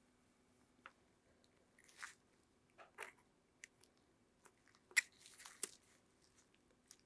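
Faint, scattered clicks, scrapes and crunches of hand work on the small parts of a miniature model truck, loudest as a sharp click about five seconds in followed by a short scratchy stretch.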